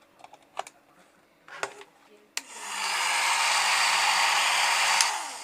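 Nova foldable hair dryer switched on with a click about two and a half seconds in, its fan quickly coming up to a steady blowing rush. Near the end it is switched off with a click and winds down, its motor tone falling. Before it starts, a few faint handling clicks.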